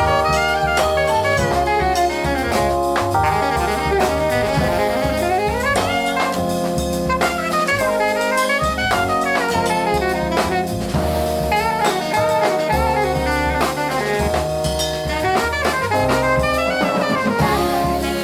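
Small jazz group playing: alto saxophone with keys, double bass and drum kit, full of quick rising and falling runs over held notes and steady drumming.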